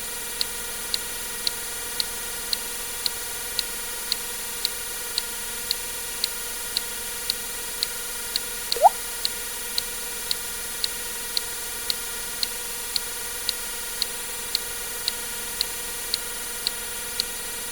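A water-drip sound effect: a single quick rising "plink" about nine seconds in. Behind it, short sharp ticks repeat about twice a second over a steady hiss and hum.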